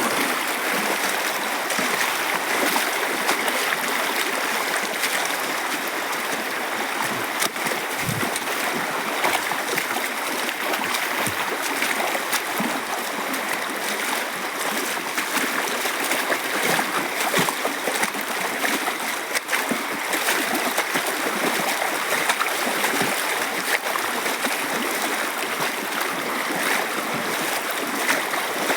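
Steady rushing of a flowing jungle stream, with a few soft low thumps.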